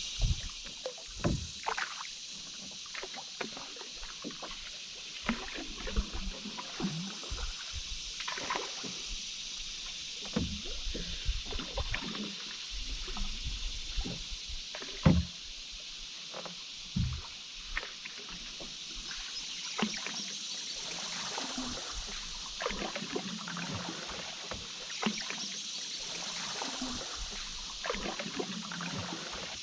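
Canoe on a river: paddle strokes dipping and dripping, with scattered short sharp knocks, over a steady hiss of moving water.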